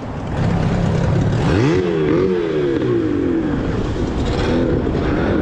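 Motorboat engines running close by, steady at first, then revving with the pitch sweeping up and down as the boats circle and turn, over wind and water noise.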